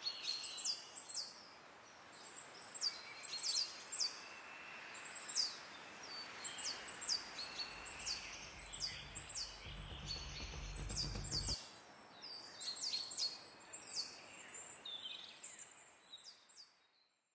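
Woodland birdsong: many short, high, downward-sweeping chirps repeating in quick runs over a steady outdoor hiss. A low rumble comes in for a few seconds in the middle, and the whole ambience fades out near the end.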